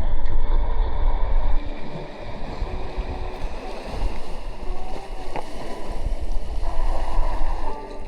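Wind buffeting the microphone, a loud, uneven low rumble over a steady outdoor rush.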